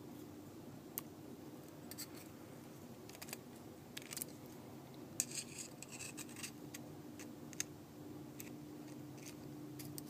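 Light, irregular clicks and small scrapes of repair tools working on iPhone 4S internals, prying at an adhesive-backed flex cable. The clicks come closest together about five to six seconds in, over a faint steady hum.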